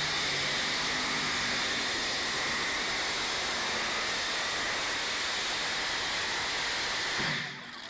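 Pulling tractor running at full power on the track: a loud, steady rushing noise with high steady whines. It cuts off abruptly near the end.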